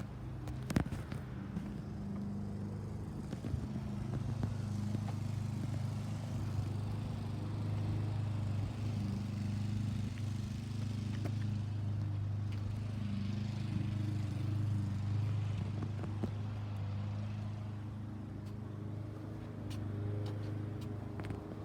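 Car engine running steadily with a low, even hum, a few light clicks near the start.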